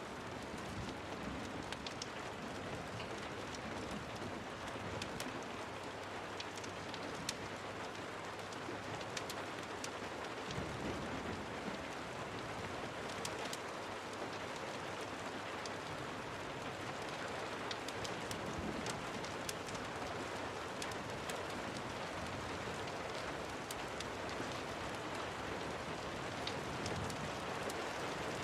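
Steady rain falling, with scattered sharp ticks of drops or crackles through it and a soft low rumble about ten seconds in.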